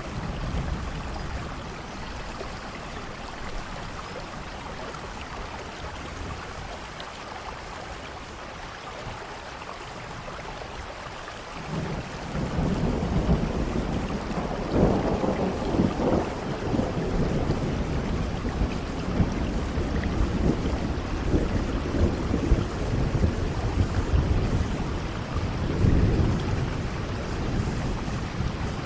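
Steady rain falling with thunder: a low rumble of thunder builds about a third of the way through and swells twice, over the constant hiss of the rain.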